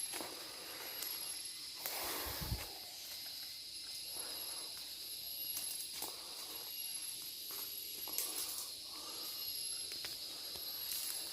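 Forest insects, cicadas and crickets, keeping up a steady high-pitched drone in two pitches, with scattered rustles in the undergrowth every couple of seconds.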